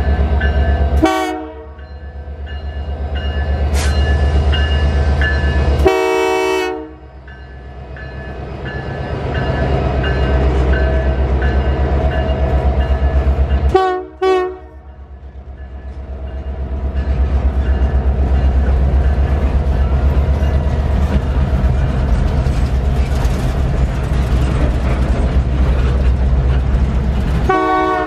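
Freight train passing close by: a Canadian Pacific GP20cEco diesel locomotive, then a string of boxcars rolling over the rails with a steady low rumble. Three times the sound drops away suddenly and swells back up over a few seconds.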